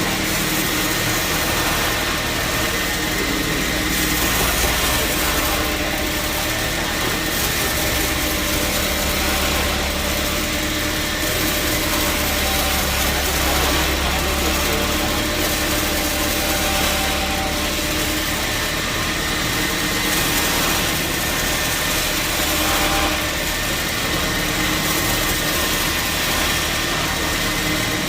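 Sawmill machinery running steadily: a constant motor drone with a steady high whine, the low hum swelling and easing a couple of times.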